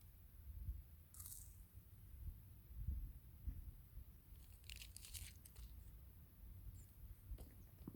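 Near silence with a faint low rumble, broken by brief crinkly rustles about a second in and again around five seconds in.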